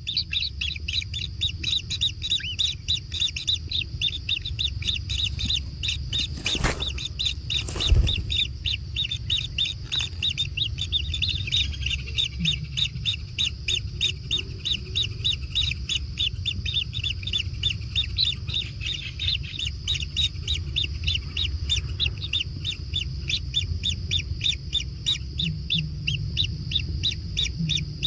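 Kingfisher nestlings begging: an unbroken run of high chirps, several a second. Two sharp knocks come about a quarter of the way through.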